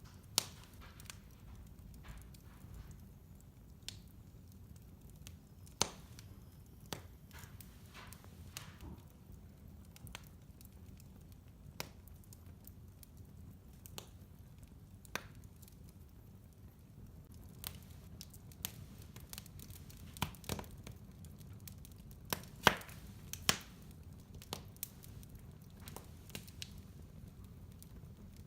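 Wood fire in a fireplace burning with a low steady rumble and irregular sharp crackles and pops, a cluster of louder pops near the middle-to-late part.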